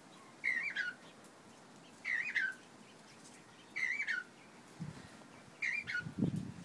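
A cockatiel repeating the same short whistled contact call four times, about every second and a half to two seconds; each call wavers up and down and then slides down in pitch. Two dull low thuds come near the end.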